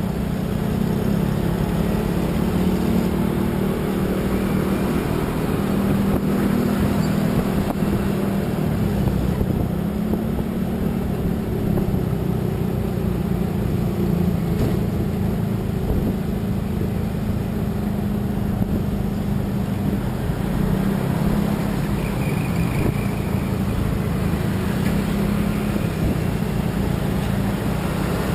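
Engine hum and road noise from a vehicle cruising at a steady speed on a highway.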